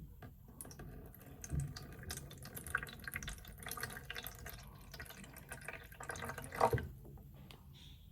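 Water being poured into a hookah's base, splashing unevenly, with a louder splash near the end before the pour stops.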